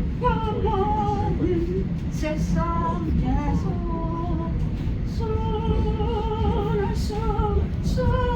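A person singing slow, drawn-out notes with a wavering pitch, pausing briefly between phrases, over the steady low rumble of a moving subway train.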